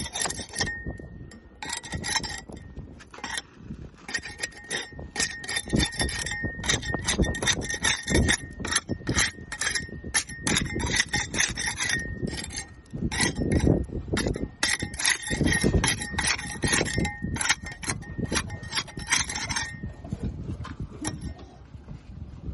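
Barnacles being scraped off a boat hull in quick repeated strokes, in runs with short pauses, with a steady ringing tone under the scraping; the scraping stops near the end.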